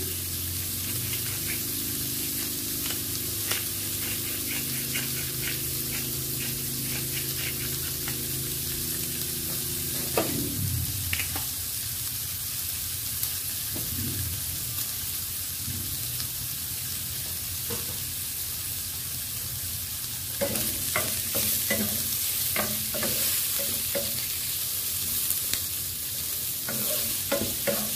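Pork slices with onion and garlic sizzling steadily in hot oil in a granite-coated pan as they brown. From about twenty seconds in, a wooden spatula stirs and scrapes them against the pan with a run of short clicks.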